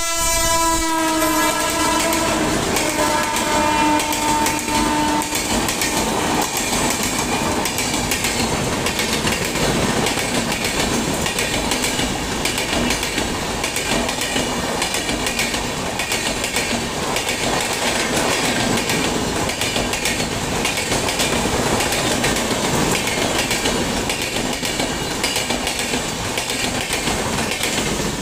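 A locomotive horn sounds as the train reaches the microphone, its pitch dropping in the first second, and lasts about five seconds. After it, ICF passenger coaches run past at about 120 km/h, with a loud steady rush and rapid clickety-clack of the wheels over the rail joints.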